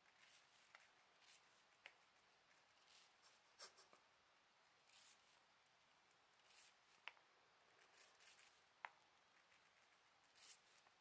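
Faint, scattered scratching and crisp clicks, with a few sharp ticks: a budgerigar and a lineolated parakeet pecking at and nibbling apple.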